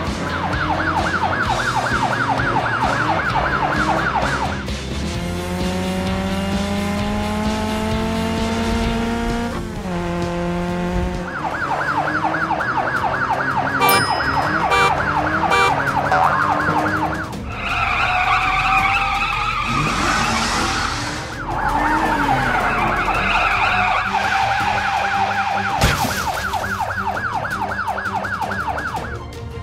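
Cartoon police-car siren with a fast warble, sounding in three long stretches. Between them comes a rising engine rev, then a tyre screech, and near the end a single sharp knock.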